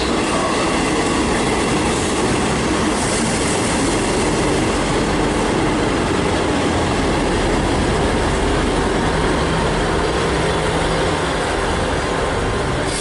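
A train running on the rails, with steady, loud wheel-on-rail and engine noise throughout.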